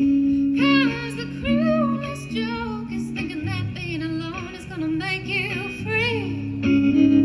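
A woman singing a winding, wavering melody with vibrato over guitar. Held guitar chords ring at the start and come back in strongly near the end.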